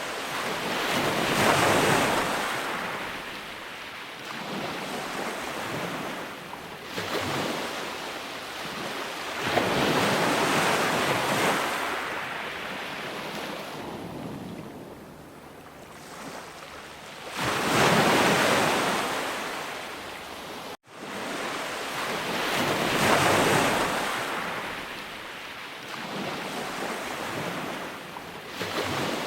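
Sea waves breaking and washing up a shore, the surf swelling loud and fading back in slow surges every several seconds. A sudden momentary gap of silence about two-thirds of the way through, like a loop splice.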